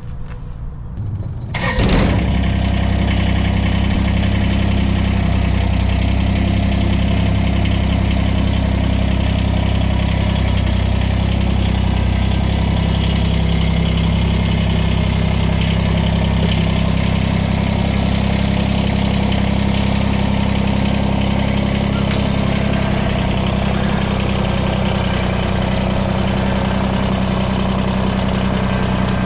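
A vehicle engine starts about two seconds in, then runs at a steady idle.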